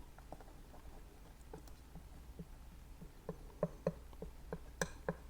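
Faint, light taps of a painting knife on the palette, about three a second and a little louder in the second half, as white and brown oil paint are picked up and worked together.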